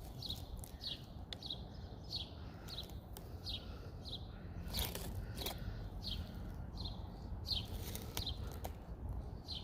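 A small songbird chirping over and over, short falling chirps about one and a half a second, over low wind rumble on the microphone. A couple of sharp clicks about five seconds in.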